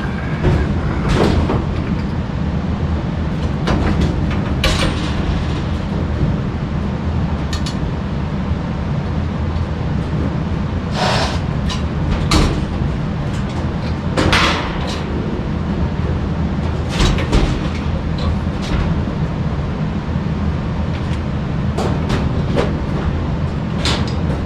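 Scattered metallic knocks and clanks of tools and sheet-metal parts as a gas furnace is worked on, over a steady low rumble.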